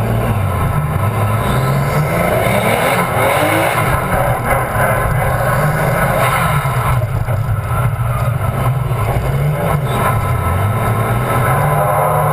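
Drift car's engine heard close up from its own hood, revving up and down repeatedly as the car pulls away and drives the course, over rough wind noise.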